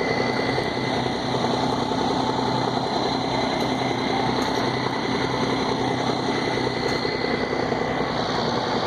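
Diesel engines of a heavy-haul truck rig running steadily as it moves slowly past: a continuous dense rumble with a faint, steady high whine over it.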